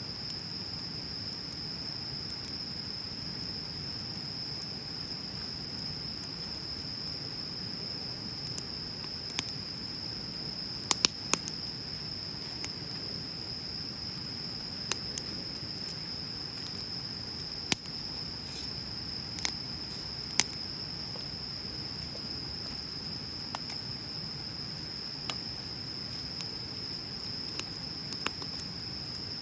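Wood bonfire crackling, with sharp pops every second or few and a cluster of loud ones near the middle, over a low steady rush from the flames. A steady high-pitched insect drone runs underneath.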